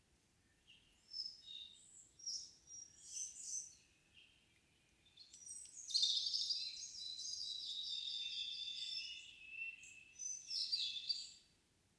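Songbirds singing in a windless evening forest: several short high chirped phrases, then a long, rapid warbling song lasting about four seconds, and another short burst near the end.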